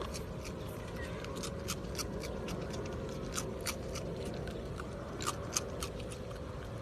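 An animal chewing crisp food, with sharp, irregular crunches coming a few times a second.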